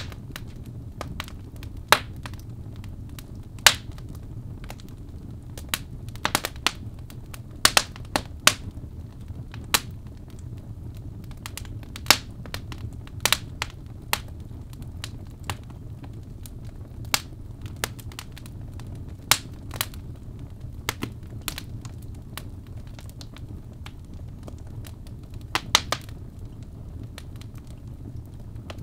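Birch logs burning in a fireplace: sharp, irregular crackles and pops, a few louder snaps among them, over a low steady rumble of the fire.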